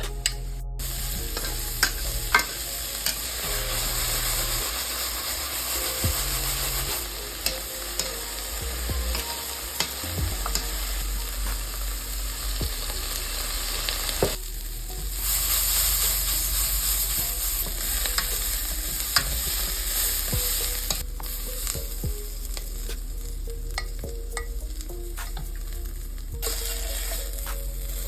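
Food sizzling in a hot frying pan while being stirred, with scattered sharp clicks and scrapes from the utensil against the pan. The sizzle grows louder for a few seconds about halfway through.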